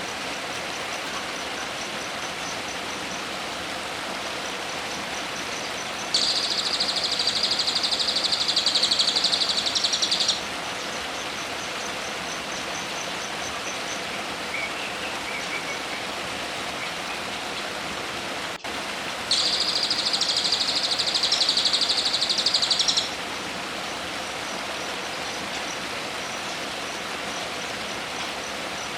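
A songbird sings two long, very fast buzzing trills of about four seconds each, the first about six seconds in and the second about two-thirds of the way through. They sit over a steady hiss, with a faint rapid high ticking between them.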